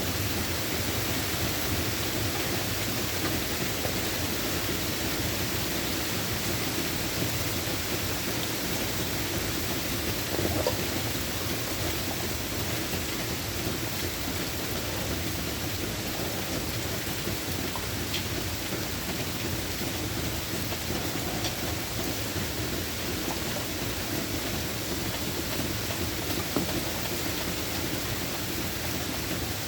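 Steady rain falling, with the tail of a low thunder rumble fading out right at the start.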